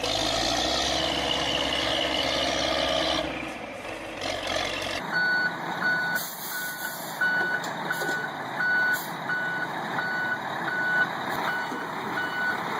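A heavy vehicle's engine runs for the first few seconds. It then gives way abruptly to a truck's reversing alarm beeping steadily, about one and a half beeps a second, over engine and outdoor noise.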